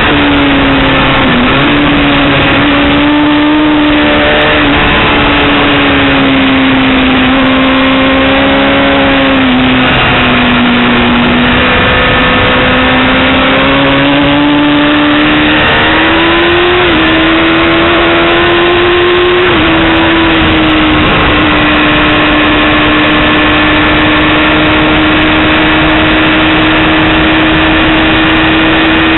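Yamaha R6 sport bike's inline-four engine running loud at track speed. Its pitch dips and climbs a few times, with a couple of sudden steps about two-thirds through, then holds steady for the last several seconds.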